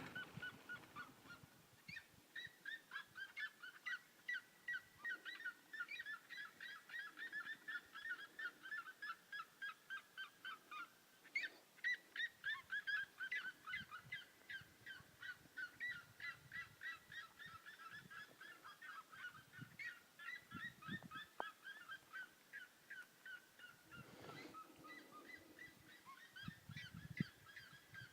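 Several birds calling faintly, long runs of short harsh notes repeated several times a second, with more than one bird calling at once.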